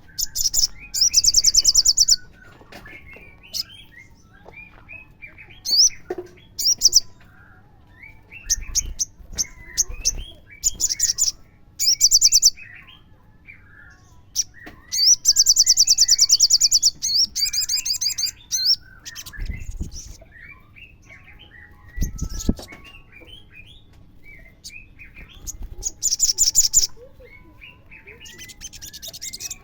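Sunbird song: loud bursts of very fast, high trills, each lasting one to two seconds, with short sharp notes and softer chirps between them.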